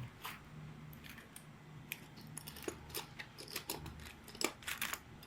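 Small parts and tools being handled and shifted on a workbench during a search: a scattered run of light clicks, taps and clatters, over a low steady hum.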